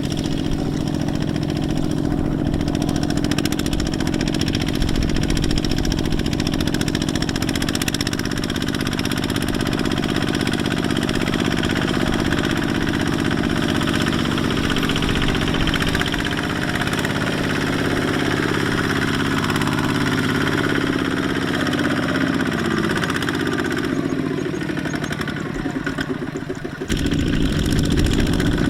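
Kubota mini tractor's diesel engine running steadily while hauling through mud, its pitch wavering for a few seconds past the middle. The sound changes abruptly near the end.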